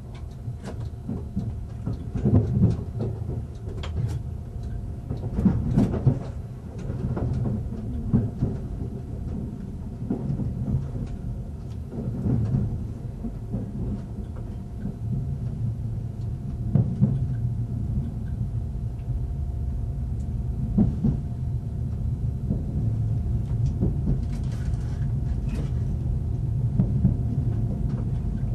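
A train running over the rails: a steady low rumble with irregular knocks as the wheels cross points and rail joints, and a faint steady tone underneath.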